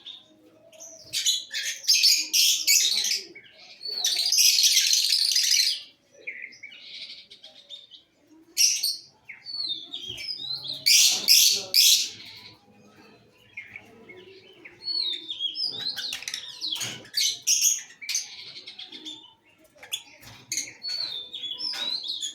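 Fischer's lovebirds chattering: bursts of shrill chirps and harsh screeches, some calls falling in pitch, with short pauses between the bursts.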